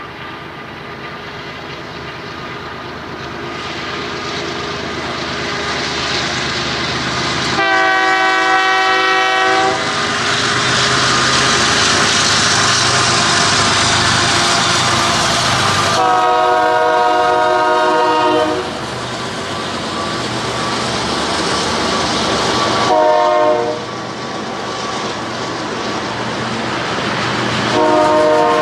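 Union Pacific freight train approaching and passing, its rumble building up. The lead locomotive's multi-note air horn sounds two long blasts, a short one, then a long one starting near the end: the grade-crossing warning pattern.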